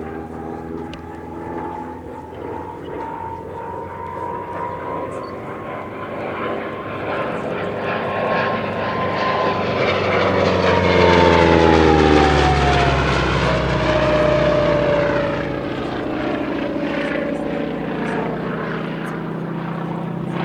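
Radial-engined T-6 "Super Six" (geared Pratt & Whitney R-1340 with a three-blade propeller) flying past. The engine drone and propeller whine build to their loudest about eleven seconds in, then the whine drops in pitch as the plane passes and the sound eases off.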